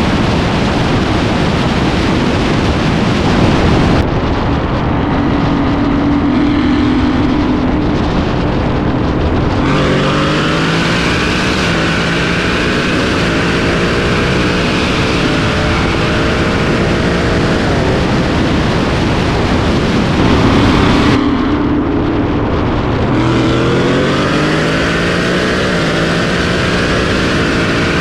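Car engines accelerating hard, their pitch climbing steadily as they pull away, in two separate runs starting about 10 and 23 seconds in. Before each run an engine holds a steady note, and the opening seconds are a loud rush of noise.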